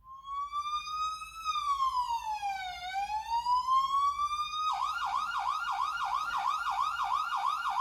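Ambulance siren. It starts with a slow wail that rises, falls and rises again, then switches a little over halfway in to a fast yelp of about five warbles a second.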